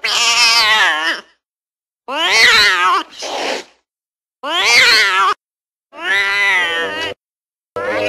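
Cat meowing: a series of about five drawn-out meows, each about a second long, rising then falling in pitch, with short silent gaps between them.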